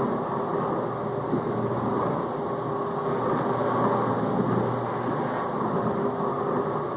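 Whirlpool dishwasher in the circulation phase of its final rinse: the wash pump runs steadily with a low hum while it sprays water around the tub.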